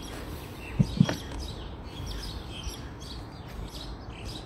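Small birds chirping repeatedly over a low steady background rumble, with two brief low thumps close together about a second in.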